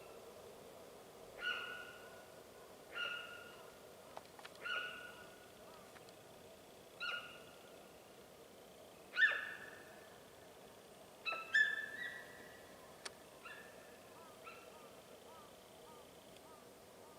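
Sika deer calling: about nine short, high, piping calls at uneven spacing, each trailing off with a brief echo, the loudest near the middle.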